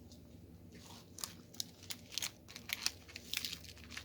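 Plastic crinkling and crackling in short, irregular bursts starting about a second in, from diamond painting supplies being handled.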